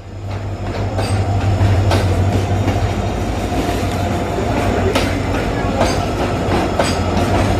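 Passenger train running along the track, with a steady low drone from a WDP4D diesel locomotive's EMD engine under the rolling rumble. Sharp clacks of the wheels crossing rail joints come every second or so.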